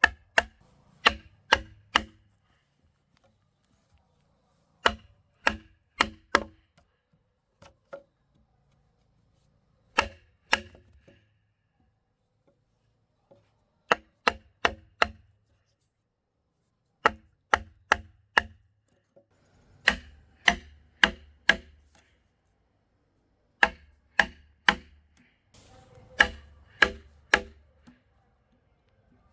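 A tool striking wood in short bursts of three to five sharp blows, about two a second, with pauses of a couple of seconds between the bursts.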